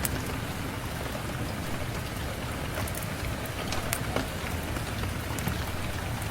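Steady rain falling, an even hiss with a low rumble, dotted with scattered sharp ticks.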